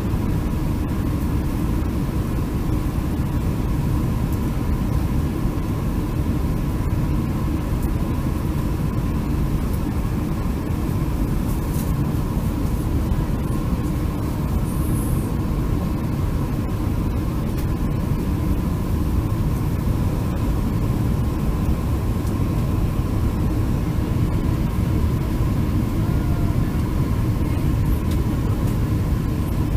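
Steady in-flight noise of a Boeing 747-400, heard from inside the cabin: a low rumble of engines and airflow with a faint constant whine.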